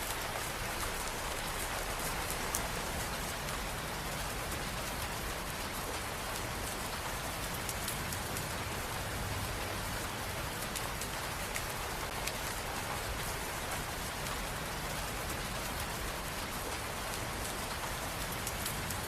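Steady rain falling, a dense even hiss with scattered individual drops ticking.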